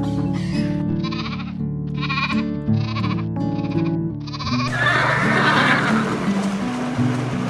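A farm animal bleating in a series of about five short calls, over background music, followed about five seconds in by a rough, unpitched noise.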